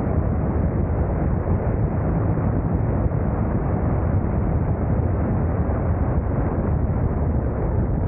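Steady wind rush on the microphone of a camera riding on a moving motorcycle, with road and engine noise from the ride underneath. It is loud and even, with no breaks.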